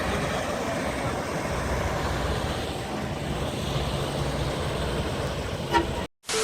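Steady rumbling noise of a running vehicle, with a brief knock near the end, cut off suddenly.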